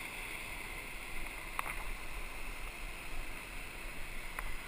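Steady rush of water and wind around a rowed surf boat under way, with two short knocks, about a second and a half in and near the end.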